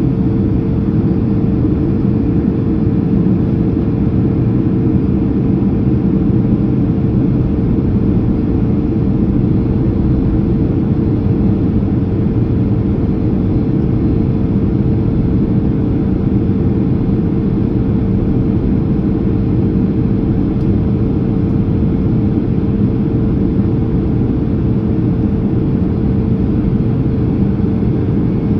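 Steady cabin drone of a Boeing 767-300ER on approach with its slats just extended: a low rumble of the engines and airflow with a steady hum running through it.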